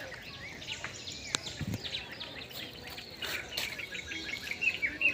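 Many birds chirping and calling at once, a busy run of short, quick notes over a steady outdoor hiss. A single sharp click comes a little over a second in.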